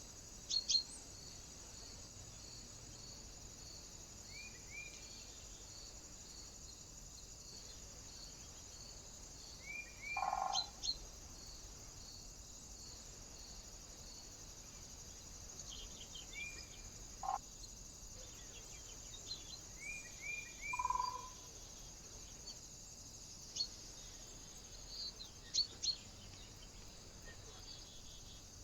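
Small birds calling at a feeder: scattered short upswept chirps and sharp clicks, with a few brief louder calls. Under them a faint high note repeats about twice a second, over a steady high hiss.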